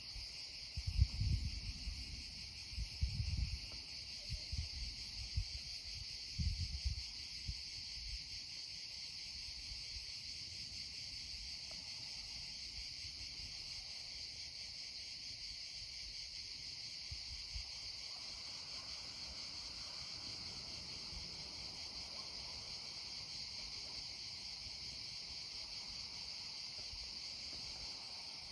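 Steady chorus of insects such as crickets, an even high-pitched chirring that does not let up. Low rumbling thumps come and go during the first eight seconds.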